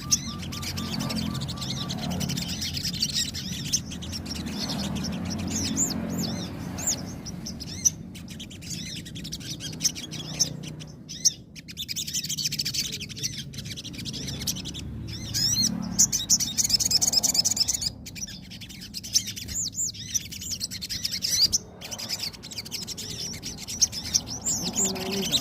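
A sogon songbird singing in bursts of rapid, high, twittering chirps ('nembak' song), phrase after phrase with short gaps, over a low steady background hum.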